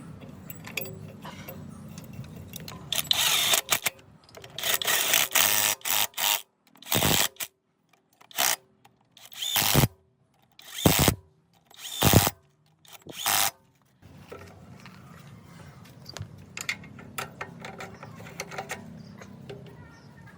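A power tool running in a series of short, loud bursts of about half a second to a second each, with abrupt silent gaps between them, over a low workshop background.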